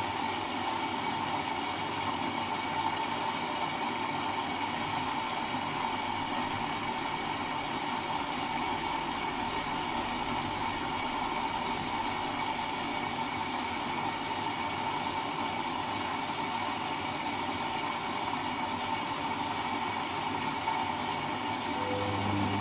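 Servis Automatic M3008B washing machine running steadily in its final rinse, an even noise with a faint steady tone; a low hum starts up near the end.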